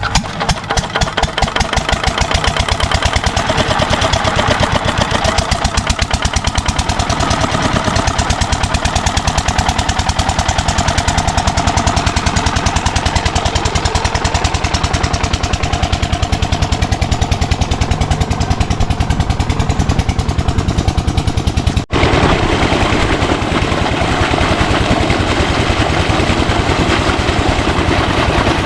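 8 hp single-cylinder diesel pump-set engine picking up speed just after starting, then running steadily with an even beat of firing strokes. Near the end the sound cuts out for an instant and returns with the same beat and more of a rushing hiss.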